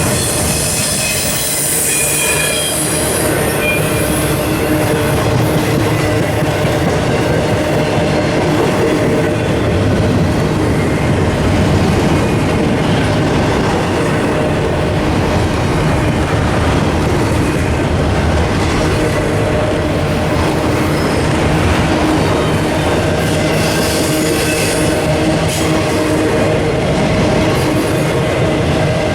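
Railroad cars rolling on steel rail: a steady rumble of train wheels, with some high wheel squeal near the start and again near the end.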